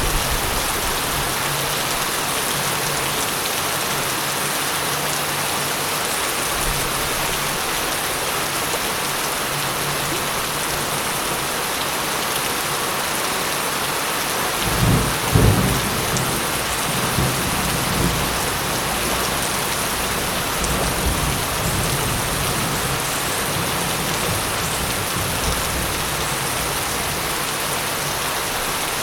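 Steady rain falling, with a low roll of thunder that swells about halfway through and rumbles on in weaker waves for several seconds.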